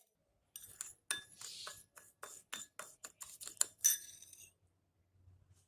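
Glassware clinking: about a dozen light, quick strikes with a bright ringing tone, like a utensil or another piece of glass tapping against a glass, ending with one louder clink.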